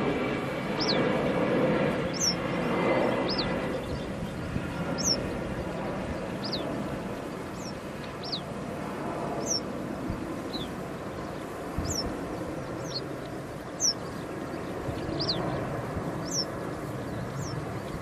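A small bird repeating a short, high, downward-slurred call about once every second or so, over a steady low rumble.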